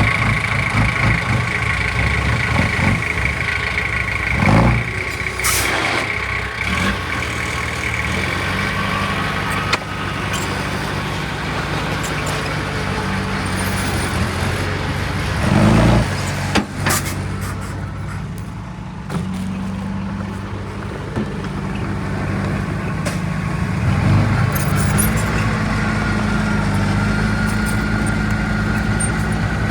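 Heavy diesel engine of earthmoving machinery running steadily under load, with a high whine over it in the first few seconds and a couple of louder thumps about four and sixteen seconds in.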